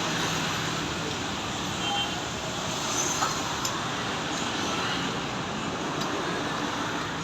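Steady background noise of road traffic and vehicles, with a few faint clicks.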